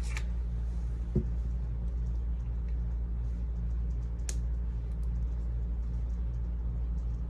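Steady low hum with small handling noises over it: a soft knock about a second in and a short, sharp click about four seconds in.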